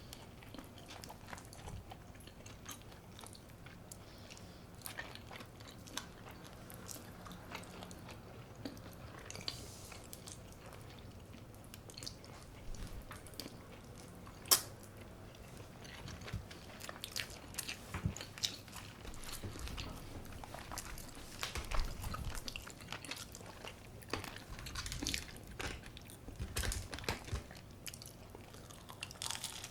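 A person biting and chewing food close to the microphone: scattered crunchy bites and wet chewing clicks, with one sharp crunch midway and busier chewing in the second half.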